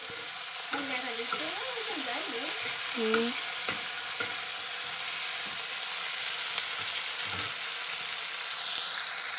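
Chopped green vegetables sizzling steadily in hot oil in an aluminium kadai, stirred with a metal spoon that clicks and scrapes against the pan a few times.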